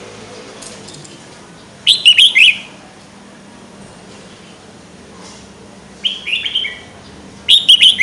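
A songbird singing three short, loud phrases of quick whistled notes: about two seconds in, about six seconds in, and again near the end.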